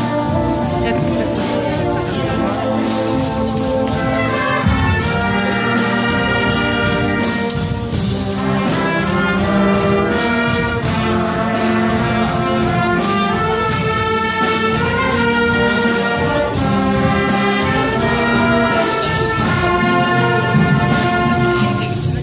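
Wind orchestra playing, with brass and woodwinds sustaining full chords over a steady percussion beat.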